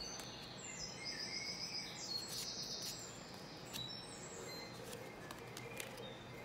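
Small birds chirping in the background, short high chirps and whistles throughout, with a few light taps and slides of stiff tarot cards being laid onto a pile.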